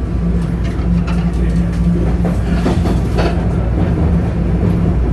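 Toronto Line 1 subway train running between stations, heard from inside the car: a steady low rumble and motor hum, with a short patch of wheel-on-rail clatter around the middle.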